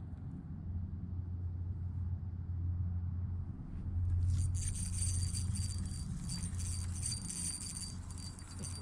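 Fishing tackle being handled in a small boat: over a steady low hum, light metallic rattling with a thin high whine starts about four seconds in.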